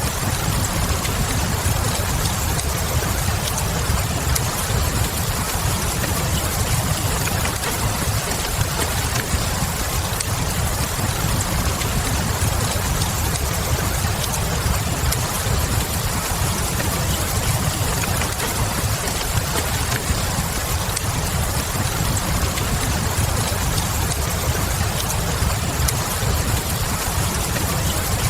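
Steady rain over a low, even rumble, with the small crackles of a wood fire scattered throughout.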